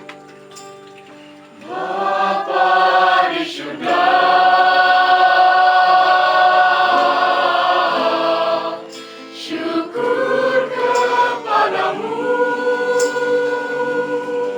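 Several voices singing together in harmony over acoustic guitar, holding long notes. The singing comes in about two seconds in, dips briefly past the middle, then goes on.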